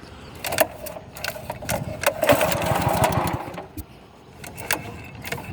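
Small boat engine running unevenly: it picks up about two seconds in, eases off near four seconds, and picks up again near the end.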